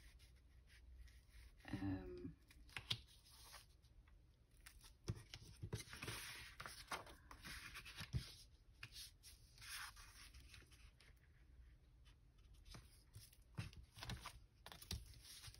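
Faint handling of craft paper and cardstock: soft rustling and tearing strokes with scattered light taps and clicks.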